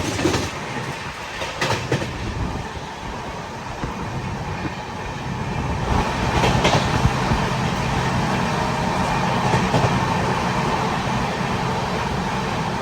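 Express train hauled by a WAP-7 electric locomotive running past at speed: a continuous rolling rumble with sharp clacks of wheels over rail joints, getting louder about six seconds in.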